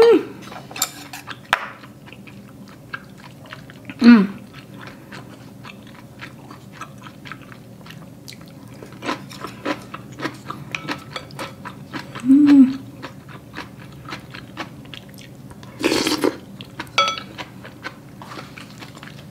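A person chewing mouthfuls of tteokguk (Korean rice cake soup): steady wet chewing with many small mouth clicks. A few brief voice sounds, like short hums, come near the start, about four seconds in, about twelve seconds in and near the end.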